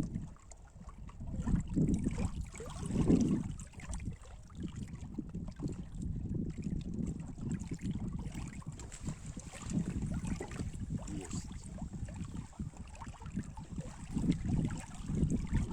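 Wind rumbling on the microphone in gusts that swell and fade, with faint small ticks.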